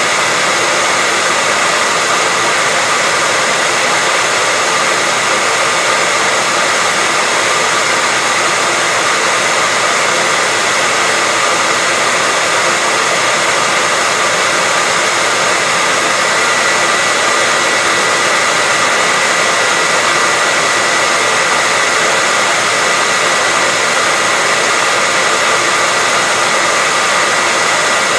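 Hair dryer running steadily: a loud, unchanging rush of air with a steady high whine from its motor and fan.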